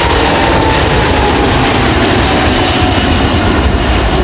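Airbus A350-900's Rolls-Royce Trent XWB jet engines at takeoff power: a loud, steady rush with a faint whine falling in pitch as the airliner passes.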